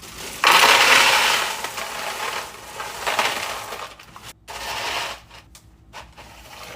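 Pebble (nugget) ice being poured and scooped into a freezer bucket, the small pieces clattering in a long rush and then two shorter ones.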